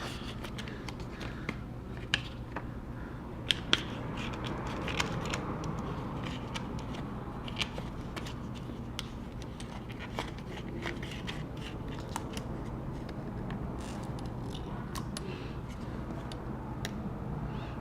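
Scattered light clicks and scraping of hand tools working on an opened MacBook Pro during battery removal, with a few sharper taps about two and three and a half seconds in, over a steady low hum.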